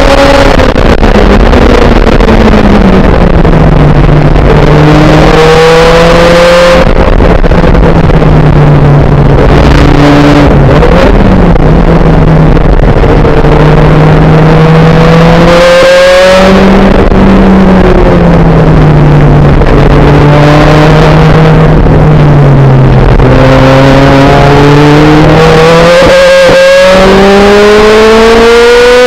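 Supercharged 1.8-litre Toyota four-cylinder of a 2005 Lotus Elise, loud from inside the cabin on track. The revs fall under braking and downshifts, then climb through the gears with brief breaks at the gear changes, and pull hard to high revs near the end.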